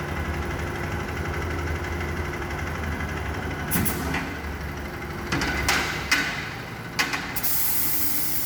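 Motorcycle engine idling with a steady low hum. A few clicks and clunks come through the middle, then from about seven and a half seconds in there is a loud steady hiss of compressed air from the pneumatic motorcycle lift.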